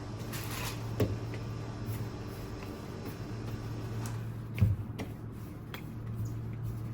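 Kitchen handling sounds while baking bread: a soft swish just after the start, light clicks and knocks, and a heavier thump a little past halfway, over a steady low hum.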